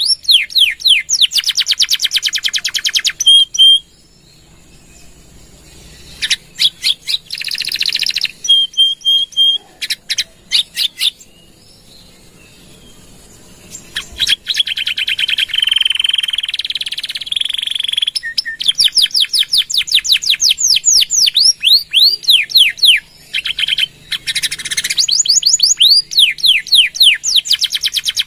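Domestic canary singing in fast rolling trills of quickly repeated sweeping notes, mixed with held whistled notes, broken by a couple of short pauses.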